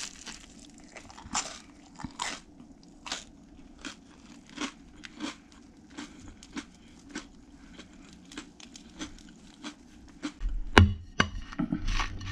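A person chewing a bite of toasted English muffin sandwich: a run of crisp crunches, about one or two a second. A louder knock comes near the end.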